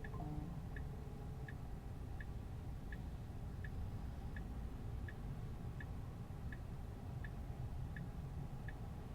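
Tesla turn-signal indicator ticking steadily, about one click every 0.7 seconds, while the car waits to turn left. Under it is a steady low road rumble inside the cabin.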